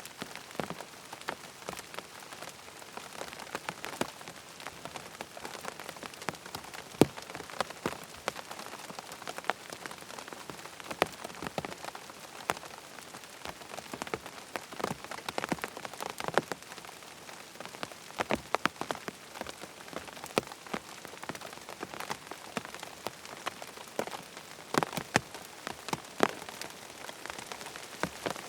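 Steady rain falling on a tent, with a constant hiss and many irregular sharp taps of individual drops hitting the fabric.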